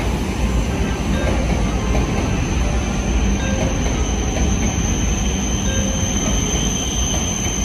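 Electric train running on the rails: a steady rumble of wheels and running gear.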